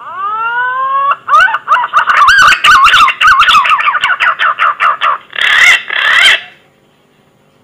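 Green pigeon (punai) call played as a hunting lure: a whistle that rises in pitch for about a second, then a quick run of about twenty warbling whistled notes, and two harsher notes near the end before it stops.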